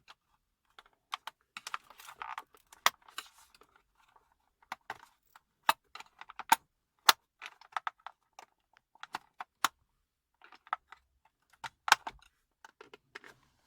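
Irregular sharp plastic clicks and taps from a car dashboard air-vent housing and its loose louvres being handled and prised apart by hand.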